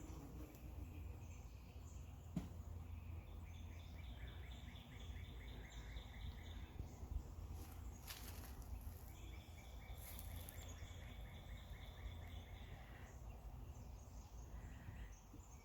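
Honeybees buzzing around an open hive as a faint, steady low hum, their noise increased as the colony grows slightly irritated by the inspection. High trilling calls come twice in the background, and there are a couple of brief rustles.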